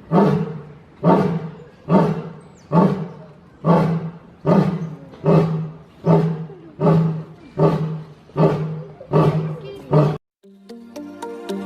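Lion roaring: the series of about a dozen deep grunts, one just under every second, that ends a roaring bout. It cuts off abruptly about ten seconds in, and music follows near the end.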